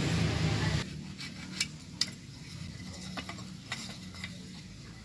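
A steady low mechanical hum that cuts off about a second in, followed by scattered light clicks and taps.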